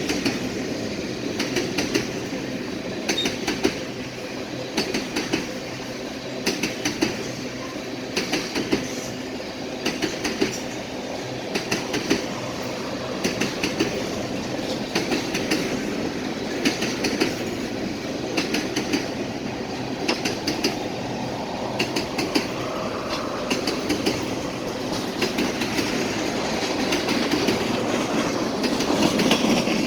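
Freight train cars rolling past, their wheels clicking steadily over rail joints with a continuous rumble, growing louder near the end.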